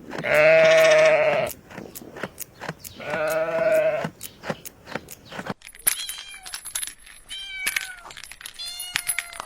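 A goat bleating twice, two long, drawn-out calls about two seconds apart. After a cut, several short, higher calls that bend up and down in pitch follow.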